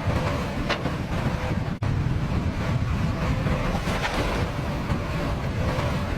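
Steady, loud rumble of an excavator's engine working in a river, mixed with the noise of rushing water, with a few sharp clicks. The sound cuts out for an instant about two seconds in.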